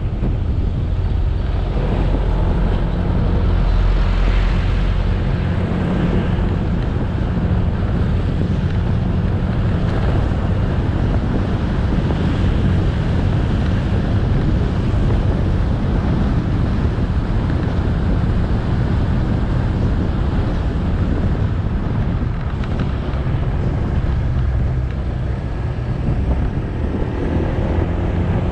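Motorcycle engine running while riding along a road, with heavy wind buffeting the microphone. Near the end the engine note rises briefly.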